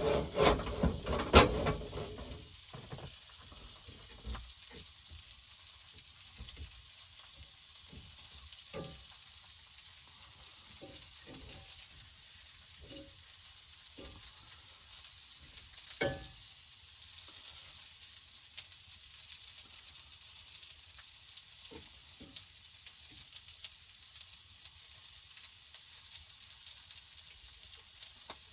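Food sizzling steadily in a frying pan, with a clatter of loud knocks in the first couple of seconds, one sharp knock about halfway through and small scattered clicks.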